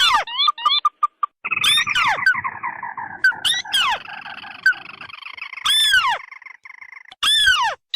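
Recorded crake calls played as a bird lure, two kinds mixed together. A rapid run of short, evenly spaced notes comes first, then a long, harsh churring trill lasting about five seconds. Loud, sharply descending whistled notes break in again and again over it.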